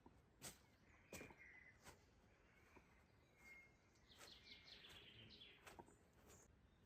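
Faint forest ambience: birds chirping, with a quick falling run of high notes about four seconds in, and a few sharp clicks scattered throughout.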